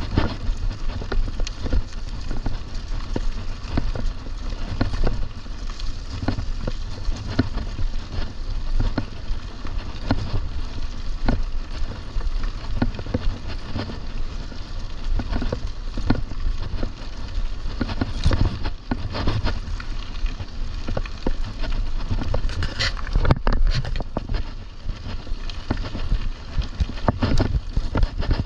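Mountain bike rolling over rough trail: a steady low rumble from the tyres and frame, with frequent clicks and rattles and a louder clatter of knocks about 23 seconds in.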